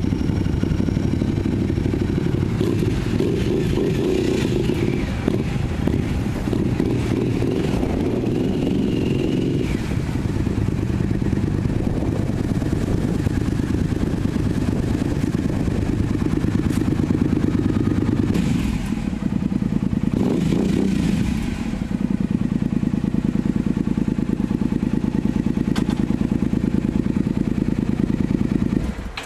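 Triumph cruiser motorcycle engine idling steadily while the bike is eased along at walking pace, with a brief change in its note about two-thirds of the way through. The engine cuts off suddenly at the very end.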